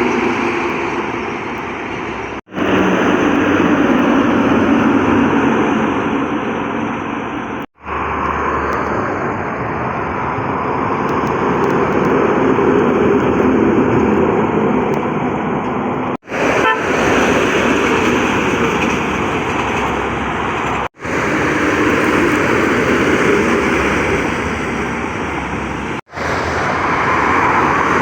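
Heavy trucks driving past on a highway: steady, loud engine and tyre noise, cut off briefly five times.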